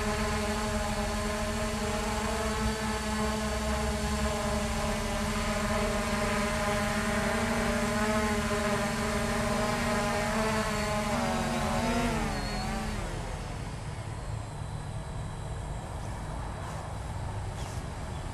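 Hubsan H501S quadcopter's brushless motors and propellers humming at a steady pitch. About eleven seconds in the pitch wavers and falls as the motors spin down, and they stop about thirteen seconds in.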